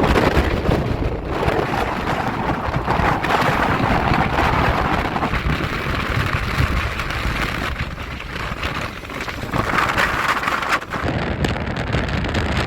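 Wind buffeting the microphone aboard a sailing yacht: a steady, loud rushing noise with low rumbling gusts that rise and fall.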